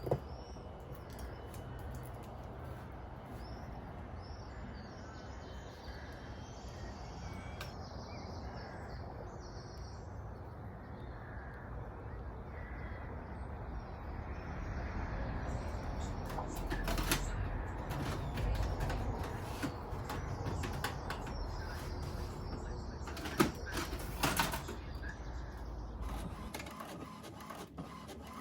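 Birds chirping over a steady background hiss, with a few sharp clicks or taps past the middle.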